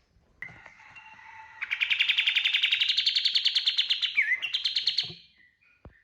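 Kapas tembak songbird singing a 'tembakan': a soft note, then a loud, very fast rattling trill of about fifteen notes a second. The trill climbs slightly in pitch over about three seconds and breaks off near the end.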